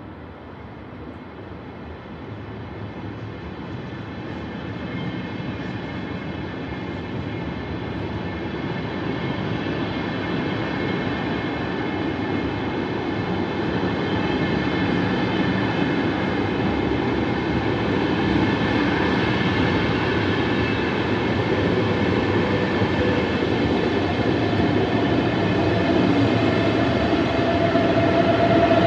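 VR double-deck InterCity train passing along the platform, the rolling noise of its wheels on the rails growing steadily louder as the carriages come past. A high steady tone joins in near the end.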